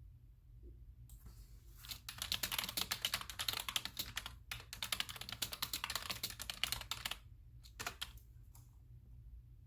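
Typing on a computer keyboard: after a few single key clicks, a fast run of keystrokes for about five seconds with a brief pause in the middle, then a few scattered clicks near the end.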